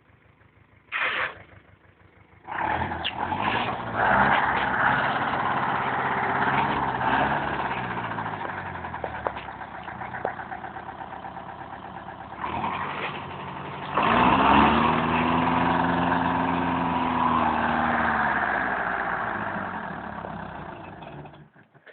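Forestry tractor engine revving up and running hard from about two and a half seconds in. Its pitch sinks, rises sharply again about fourteen seconds in, then falls away and fades near the end.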